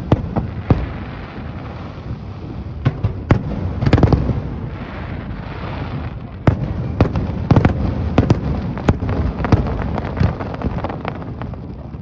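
Aerial fireworks bursting in loud, irregular bangs, several a second at times, with a denser crackling stretch about four to six seconds in.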